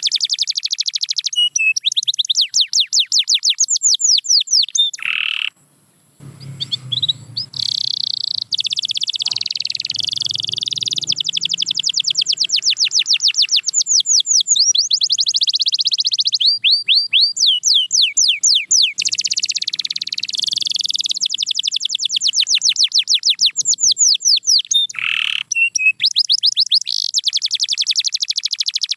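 Canary singing: long, fast trills of rapidly repeated falling high notes, one trill running into the next, with a short break about five and a half seconds in.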